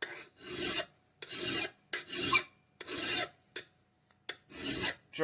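Hand file rasping across the steel edge of an axe head in even push strokes, about six of them, each under a second long with short pauses between: the file is reshaping a dull point of the edge.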